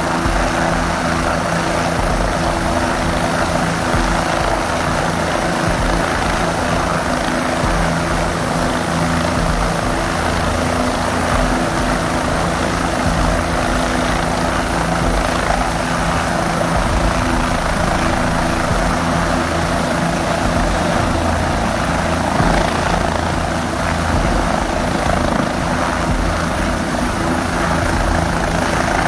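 Helicopter running steadily, a constant rotor and engine noise with several steady low hums underneath.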